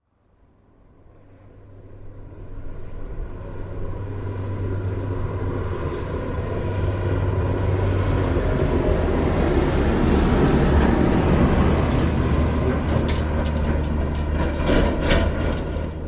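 A motor vehicle running with a low hum, growing louder and then fading, with a cluster of sharp clicks near the end.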